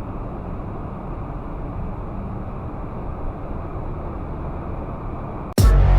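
Steady low rumble of a car driving, road and engine noise. About five and a half seconds in it cuts off abruptly and loud electronic music with a heavy beat starts.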